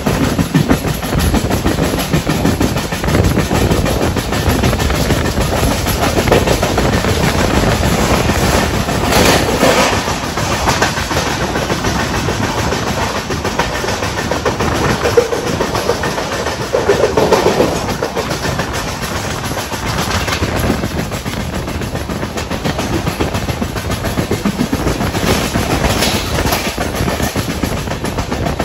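Passenger train running on the track, heard from aboard an LHB sleeper coach: a steady rumble with wheels clattering over rail joints, and one sharp clack about halfway through.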